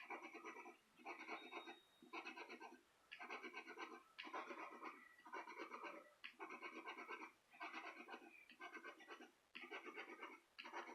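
A scratch-off lottery ticket being scratched in short strokes, about one a second, scraping the latex coating off the play area.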